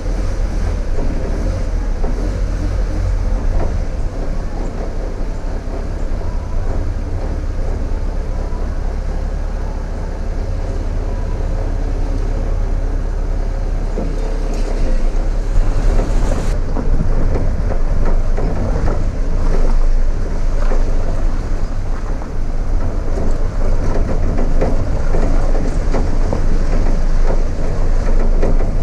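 A vehicle on the move: a steady, loud low rumble of road and wind noise with scattered rattles.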